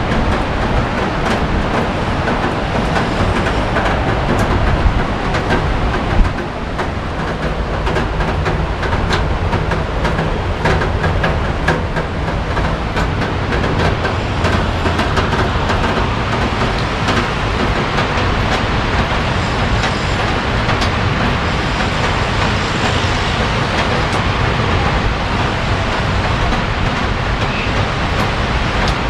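Heavy rain falling: a steady, loud hiss, dense with the ticks of drops striking surfaces, with one sharp knock about six seconds in.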